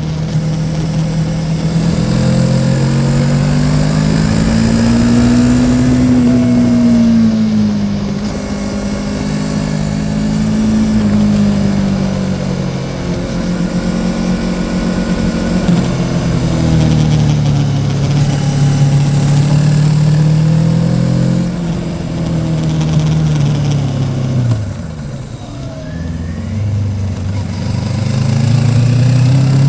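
Yamaha Tracer 700's 689 cc parallel-twin engine running while riding, its revs rising and falling with the throttle. The revs drop sharply about 25 seconds in, then climb again near the end, over a steady low rumble of wind on the microphone.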